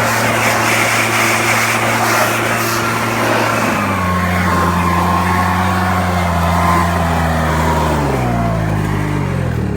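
RedMax two-stroke backpack leaf blower running at full throttle with a rush of air. About four seconds in it is throttled back to a lower speed, and near the end it winds down in pitch as it is shut off.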